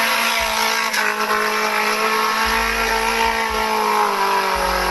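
Off-road 4x4 Jeep engine revving hard at a steady high pitch as it drives through deep mud, the note dipping slightly about four seconds in.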